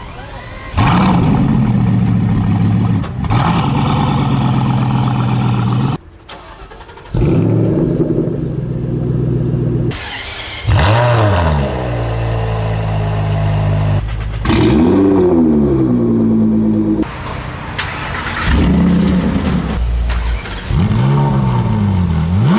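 A run of different supercar engines cold-starting one after another, in about eight short clips with abrupt cuts between them. Several catch with a sharp rev flare that rises and falls back to a steady, high cold-start idle.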